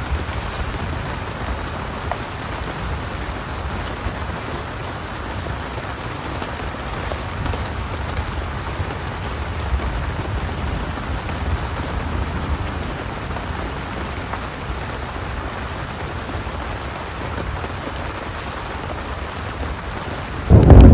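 Heavy rain falling steadily, with a low rumble underneath. Near the very end a loud clap of thunder suddenly breaks in.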